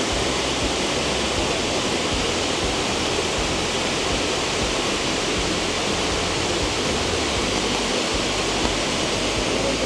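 Steady, loud rush of water falling at Shifen Waterfall, an even wash of noise with no break.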